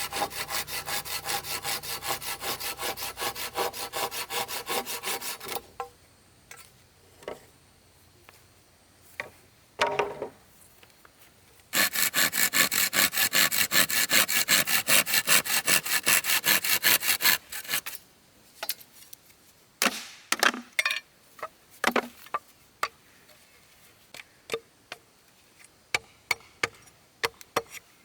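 Hand saw cutting through a wooden board with quick, even strokes, in two bouts of about five seconds each. Between and after them come scattered knocks and clicks of wood being handled.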